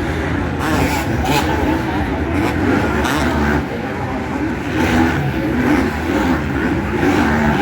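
Motocross bike engines revving on the race track, several at once, their pitch rising and falling as the riders open and close the throttle.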